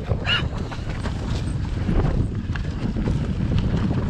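Mountain bike rolling down a rough, rooty dirt trail: tyres and frame clattering over roots and rocks in irregular knocks, over a steady low rumble.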